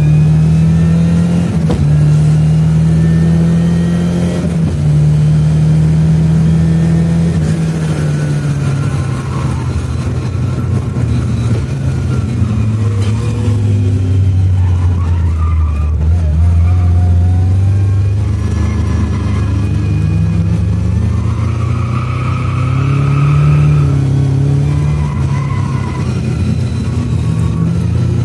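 Lada 2107's 2-litre Fiat engine under hard driving on track, heard from inside the car: it is held at high revs, eases down to lower revs around the middle, then revs up again later.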